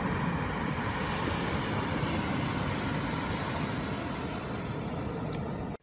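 Steady outdoor rushing noise of wind and surf on a sandy beach, with wind rumbling on the microphone; it cuts off suddenly at the end.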